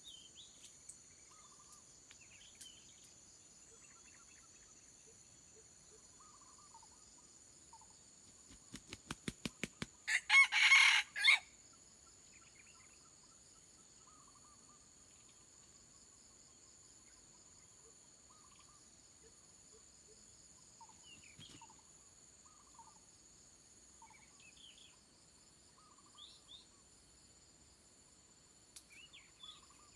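A wild junglefowl rooster beats its wings in a quick run of claps, then gives one loud, short crow. Faint steady insect trilling and scattered small bird chirps go on throughout.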